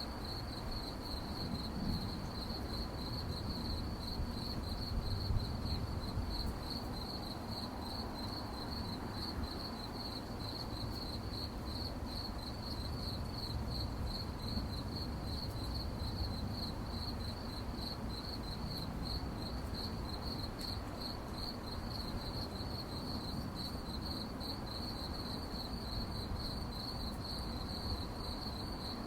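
Crickets chirping at night in a steady, rapid pulsing trill at one high pitch. A low background rumble runs underneath.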